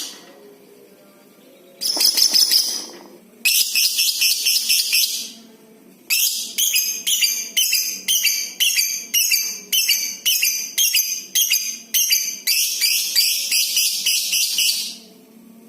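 Lovebird giving shrill, harsh chattering calls in bursts. About halfway through comes a run of quick repeated chirps, roughly two a second, and near the end a long unbroken chattering trill, the long 'ngekek' that lovebird keepers prize.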